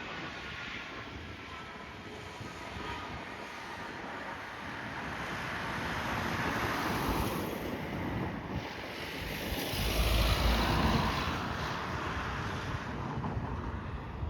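Jet airliner passing, its engine whine falling in pitch over the first few seconds under a broad rush of jet noise. About ten seconds in, wind buffets the microphone.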